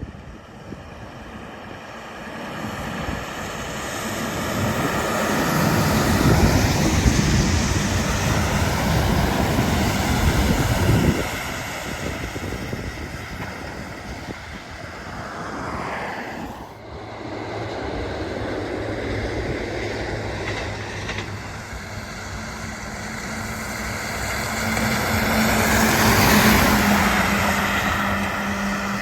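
Heavy trucks passing on a highway, one after another. Each swells in engine and tyre noise as it approaches and fades as it goes by. The first pass cuts off suddenly about a third of the way in, and a second truck with a steady engine drone is loudest near the end.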